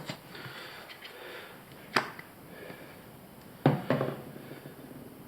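Faint handling of faucet repair parts with three sharp clicks, one about two seconds in and two close together near four seconds, as small parts are knocked together or set down.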